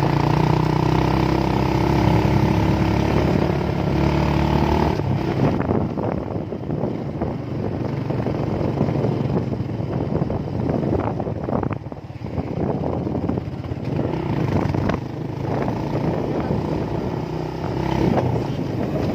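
Motorcycle engine running steadily under way. About five seconds in its even note gives way to a rougher mix of wind and road noise with scattered knocks and rattles, as the bike rides over a bumpy road.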